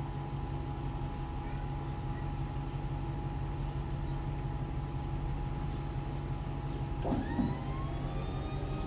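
Steady mechanical hum from the pickup's truck-mounted motorcycle rack setup. About seven seconds in, an electric lift motor starts and whines, rising in pitch as it spins up under load.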